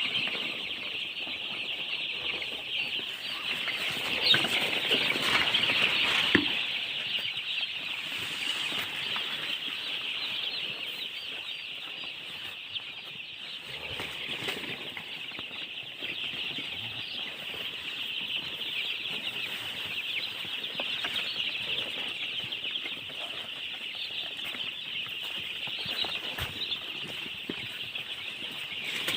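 A brood of baby chicks peeping continuously, many high overlapping chirps at once, a little louder about four to six seconds in.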